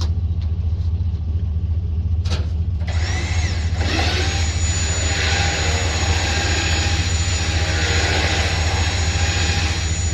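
A vehicle engine running steadily with a low hum. About three to four seconds in, a loud rushing noise with a thin high whine sets in and keeps going.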